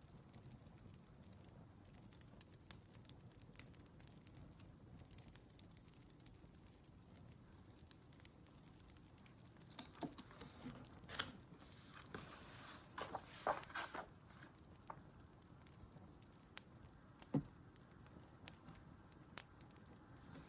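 Faint crackling of a wood fire, with a few seconds of rustling and small taps about halfway through and a single knock a few seconds later.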